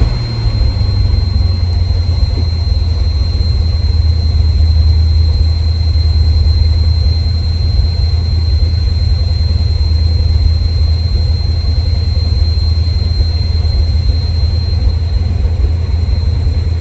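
Car engine idling steadily with a light popping, which the owner puts down to a vacuum leak or leaking exhaust manifold gaskets. A thin steady high whine runs over it.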